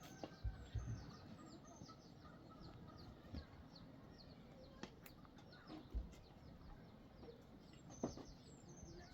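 Birds chirping faintly: many short, high, falling notes, with a few dull thumps near the start and around six and eight seconds in.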